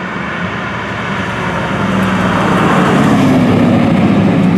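A street-racing car's engine running hard as it draws near, growing louder over the first three seconds, then holding.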